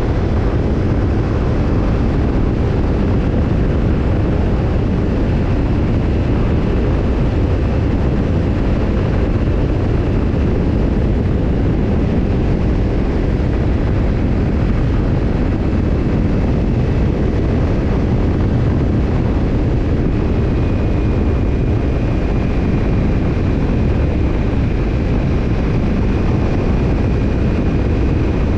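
Kawasaki Ninja 250's parallel-twin engine and BEET NASSERT Evolution Type II titanium slip-on muffler, running steadily with no revving, heavy in the low end.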